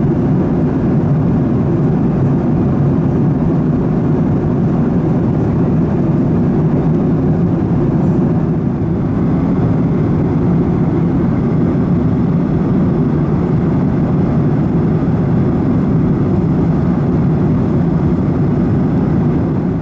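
Steady in-flight cabin noise of a Boeing 737-900ER airliner: an even, low rumble of engine and airflow noise that does not change.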